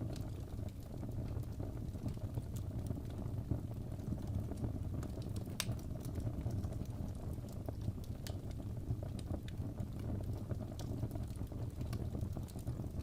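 Wood fire in a fireplace crackling: scattered sharp pops and snaps, one louder near the middle, over a steady low rumble.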